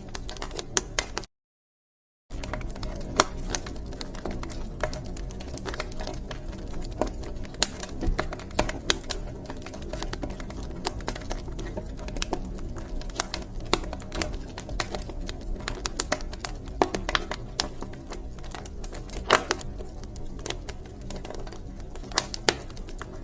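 Wood fire crackling in a fireplace: a steady low rumble of flames with irregular sharp pops and snaps, a few of them louder. The sound cuts out completely for about a second just after the start, then resumes.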